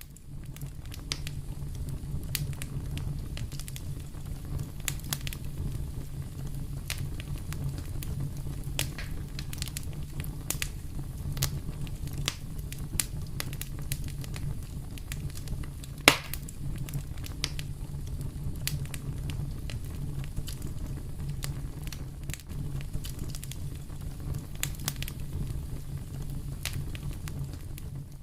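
Fire in a fireplace crackling, with frequent sharp pops over a steady low rumble of the flames, and one loud pop about halfway through.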